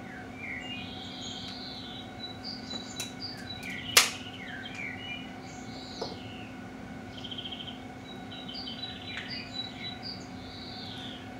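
Birds chirping and whistling in short repeated calls over a steady low hum, with one sharp crack about four seconds in and a fainter click a couple of seconds later.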